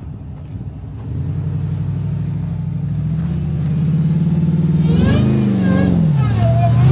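A pickup truck's engine running, getting louder from about a second in, then revving down and up from about five seconds in.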